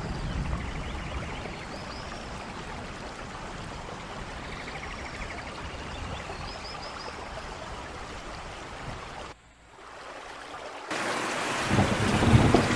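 Steady rain falling, with a few faint high chirps. About nine seconds in the sound briefly drops almost to nothing, then returns as louder, heavier rain with a low rumble near the end.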